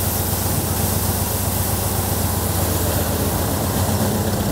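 Air-cooled flat-four engine of a VW Beetle idling steadily, with a constant hiss over the low engine hum.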